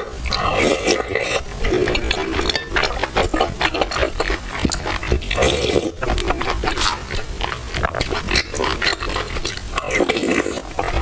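Close-miked slurping and chewing of hot milk tea mixed with soft, chewy purple rice, with wet mouth smacks and many small clicks.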